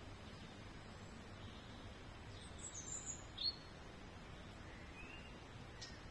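Faint outdoor background hiss with a few short, high bird chirps bunched together about halfway through, then a single thin note a little later.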